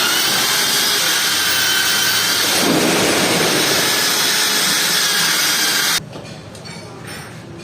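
A power tool running steadily with a loud hiss and a faint wavering whine, cutting off abruptly about six seconds in.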